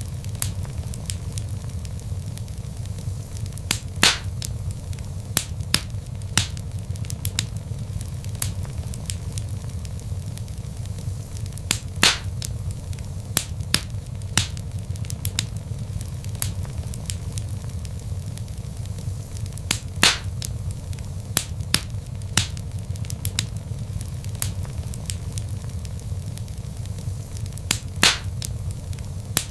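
Log fire crackling: a steady low rumble of burning with a constant scatter of small sharp crackles, and louder single pops roughly every eight seconds.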